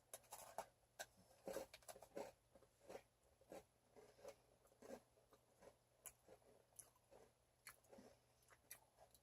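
Faint crunching and chewing of a fruit-flavoured Oreo cookie. Quick irregular crunches come thick for the first two seconds, then thin out to an occasional crunch every half second or so.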